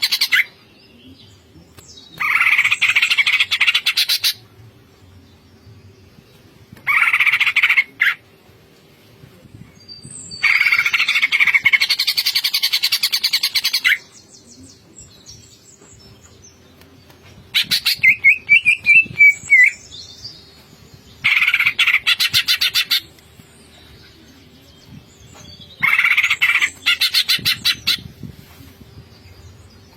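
Cucak ijo (green leafbird) singing in loud bursts of very rapid chattering notes, about seven phrases broken by short pauses, one of them with a whistled note that rises and falls, near the middle.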